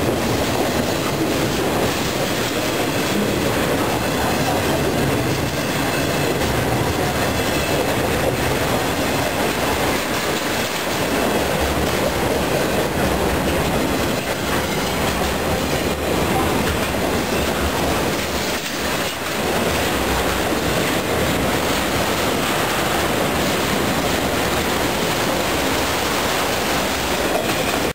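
BNSF intermodal freight cars rolling past close by: a steady, loud rolling noise of steel wheels on the rails.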